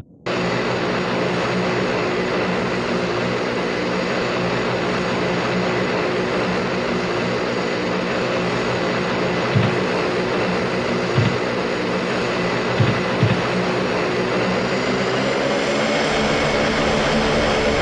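Aircraft engine running steadily: a constant, even drone with a low hum, broken by a few brief low knocks around the middle.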